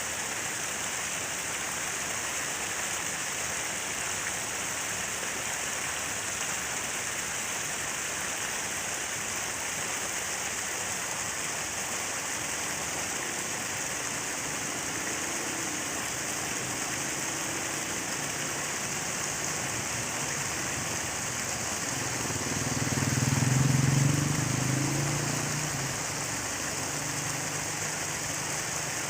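Falling water splashing in a steady, even hiss. About three-quarters of the way through, a low rumble swells and fades over a few seconds.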